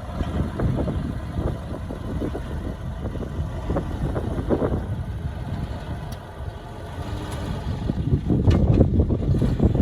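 Diesel engine of heavy earthmoving equipment running with a deep rumble that dips in the middle and rises again near the end, with a few short knocks.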